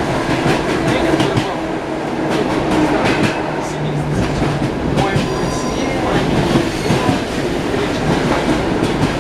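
The wheels of an ED9M electric multiple unit knocking on the rails, heard from inside the carriage: a steady running rumble with occasional sharp knocks.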